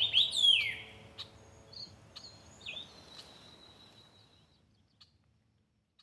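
Birds calling: a few sharp chirps that sweep downward in the first second, then fainter chirps and a thin high tone, all fading out about five seconds in.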